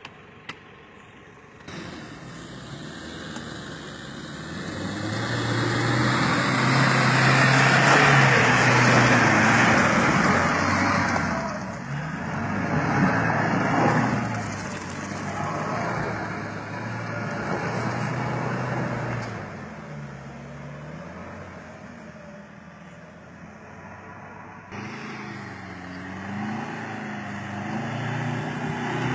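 4WD pickup truck engine revving under load, its pitch rising and falling, with a loud rushing stretch a few seconds in.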